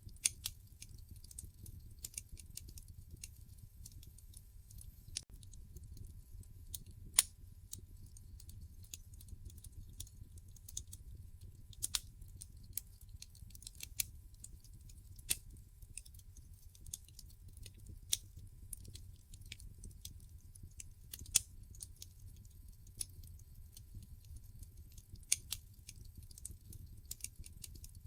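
Wood fire in a fireplace crackling: irregular sharp pops and snaps, with several louder snaps scattered among the small ones, over a low steady rumble.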